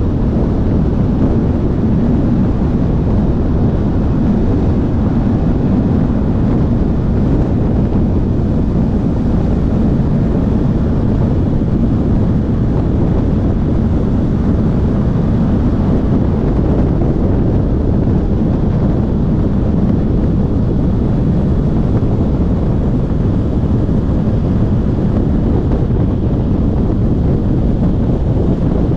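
Steady low wind rumble buffeting the microphone, with a motorcycle running underneath.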